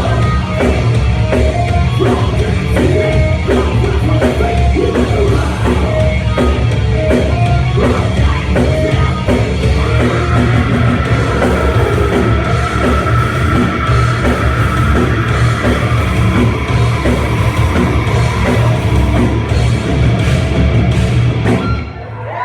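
Loud heavy rock music with a singing voice and drums, dipping in level just before the end.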